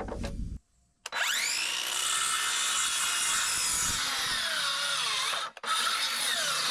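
Electric power saw starting about a second in and cutting through a 2x4 skid at an angle, its motor pitch sagging under the load of the cut. It breaks off briefly near the end and then runs again.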